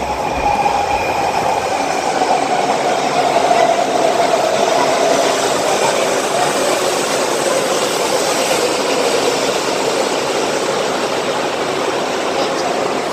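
Taiwan High Speed Rail train pulling in along the platform: a loud, steady rushing noise with a whine that falls slowly in pitch as the train slows.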